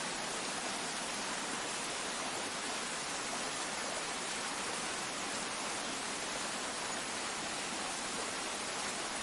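Water running steadily in a small canal, an even rushing hiss with no distinct splashes.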